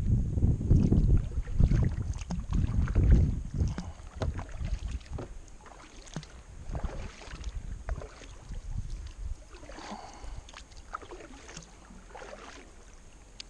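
Kayak paddle strokes dipping and splashing in the water, with scattered knocks, likely the paddle against the hull. Low wind rumble on the microphone is loud for the first three seconds or so, then dies down.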